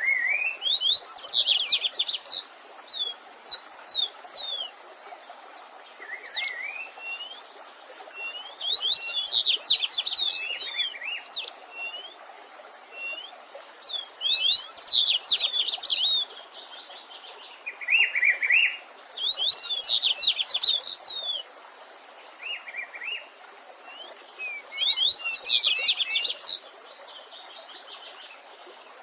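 Songbirds singing: one bird repeats a fast, high twittering phrase of a second or two about every five or six seconds, with a shorter, lower phrase from another bird in between. Underneath is the faint, steady rush of a stream.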